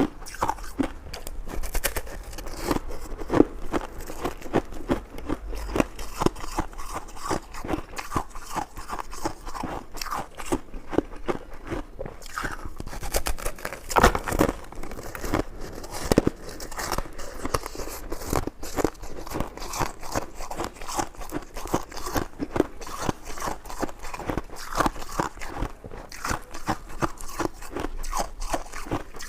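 Close-miked eating sounds: a person biting and chewing, a dense, irregular run of small clicks and crunches, with a few louder bites, the loudest about halfway through.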